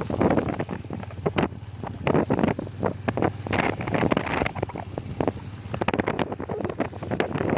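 Wind buffeting the microphone of a moving motorcycle in irregular gusts, with a steady low engine hum underneath.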